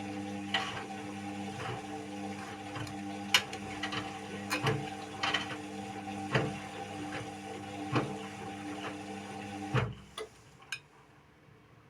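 Indesit WIU 81 washing machine running on a quick 30° wash: a steady motor hum with irregular clicks and knocks from the turning drum. The hum stops about ten seconds in, leaving a couple of faint clicks.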